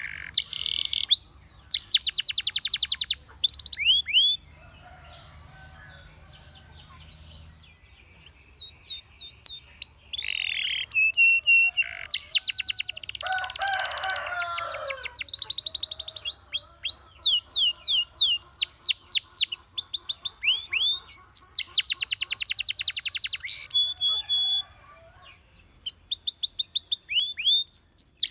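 Domestic canary singing: rapid rolling trills alternating with series of quick, high downward-sweeping whistles, broken by a pause about four seconds in and a brief one near the end.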